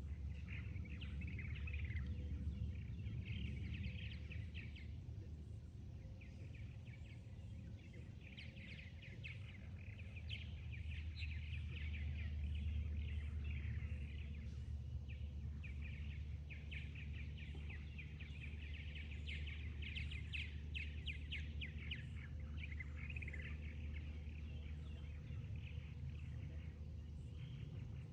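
Small birds chirping and twittering almost without a break, over a steady low rumble.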